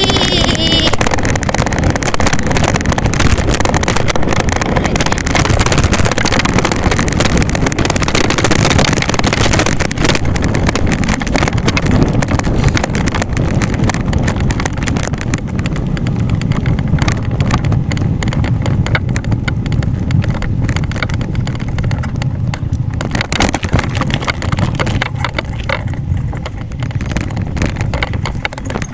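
Wind buffeting the microphone while riding, a loud steady rush with rapid flutter.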